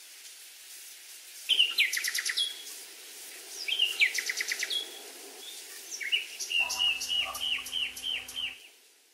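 Birds singing over a steady background hiss: two quick trilled phrases about a second and a half and three and a half seconds in, then a longer run of repeated falling notes near the end.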